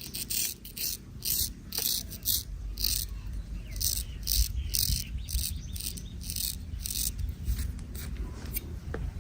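Razor scraping over hair and skin in short repeated strokes, about two a second, each a brief high hiss.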